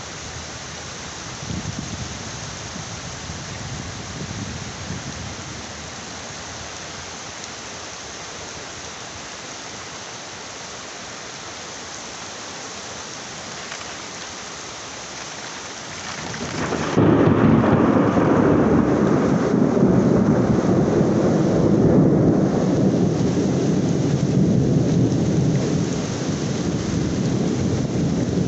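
Heavy rain falling in a steady hiss, with a faint low rumble of thunder a couple of seconds in. About two-thirds of the way through, a loud low rumble of thunder sets in suddenly and holds to the end, and the high hiss of the rain drops away under it.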